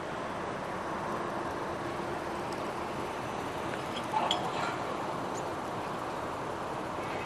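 Steady vehicle rumble, with a brief clink about four seconds in.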